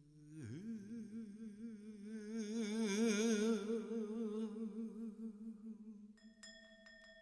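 Korean gueum: a wordless sung voice holding one note with a wide, even vibrato, swelling and then fading away. Near the end a ringing struck tone with light clicks comes in.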